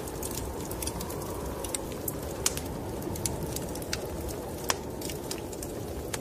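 Wood fire in a fireplace crackling, with sharp, irregular pops and snaps over a steady low rushing.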